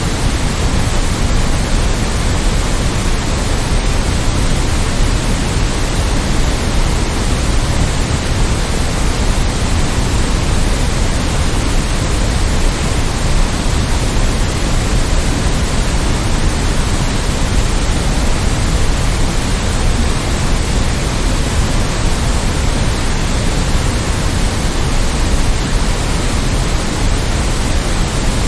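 Continuous white noise: an even, unchanging hiss spread across all pitches, slightly fuller in the low end.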